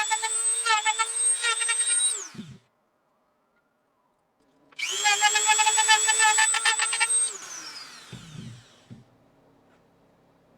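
Dremel rotary tool running with a high whine, grinding down the epoxy package of a DS12887A clock chip. It stops about two seconds in and winds down, starts again a couple of seconds later for about two and a half seconds, and winds down again.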